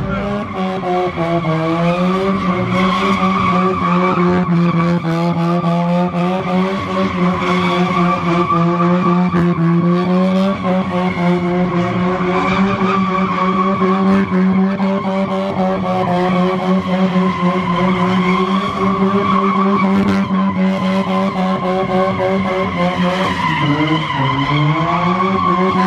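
A car engine held at high revs while the tyres spin and squeal in a long burnout. The revs dip briefly about a second in and again near the end.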